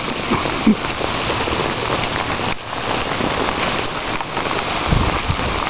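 Steady rain falling hard, an even dense patter all around, with a few low thumps about five seconds in.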